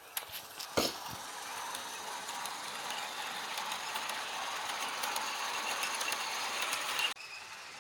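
Train of Mark 2 passenger coaches running on the rails, with a few sharp clicks of wheels or running gear in the first second, then a steady rolling noise that builds. The noise cuts off abruptly near the end.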